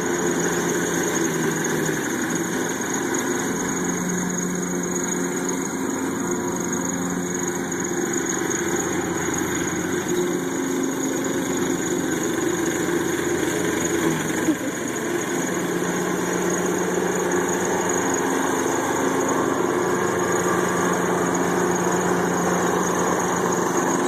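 Riding lawnmower engine running steadily under way, its pitch dipping slightly now and then as the load changes.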